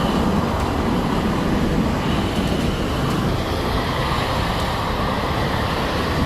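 Water gushing steadily from a cut tree trunk: an even, loud rushing noise with no breaks.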